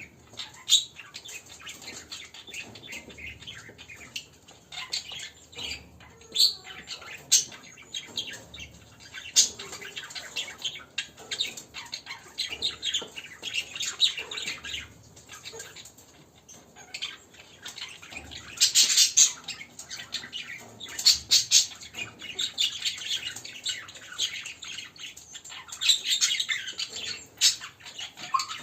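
Many caged birds in an aviary chirping and squawking: a dense, overlapping run of short high calls, with several louder flurries in the second half.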